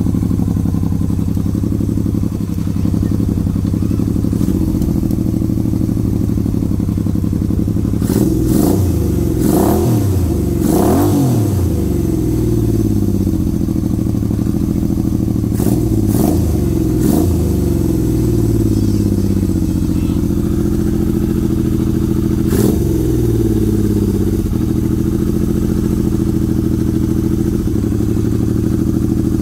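1977 Yamaha XS750-2D's three-cylinder engine running through a Jardine exhaust, idling steadily with several quick throttle blips that rise and fall in pitch: a few about a third of the way in, two more a little past halfway, and one later on. It runs smoothly after sitting for decades.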